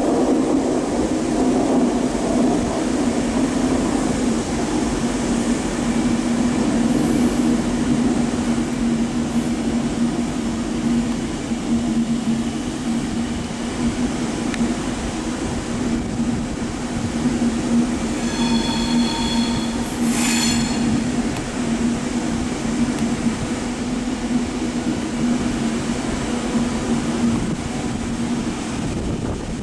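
A train running steadily through the station with a constant low hum, and a brief high-pitched ringing about two-thirds of the way in.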